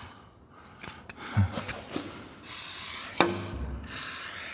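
Aerosol can of penetrating oil spraying on seized fixings in short hissing bursts, with a few sharp clicks and knocks in between.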